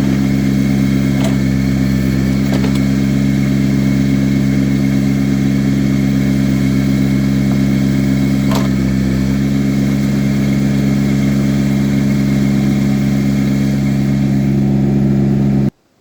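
Engine of an earth-moving machine running steadily, with a few faint clanks. The sound cuts off abruptly near the end.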